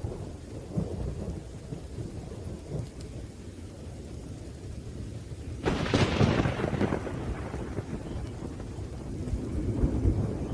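Thunderstorm: steady rain with low rolling thunder, and a sudden sharp thunderclap a little past the middle that rumbles away over a second or two, then more rumbling near the end.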